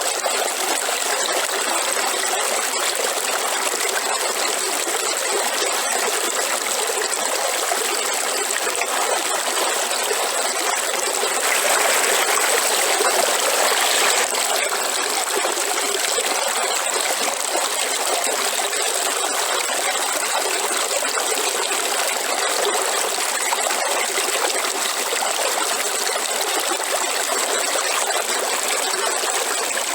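Waterfall: falling water running steadily, briefly a little louder about twelve seconds in.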